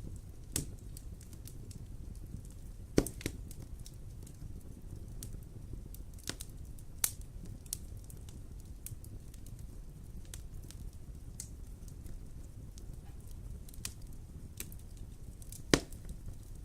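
Wood fire crackling in a fireplace: irregular sharp pops and snaps, with a louder pop about three seconds in and another near the end, over a low steady rumble.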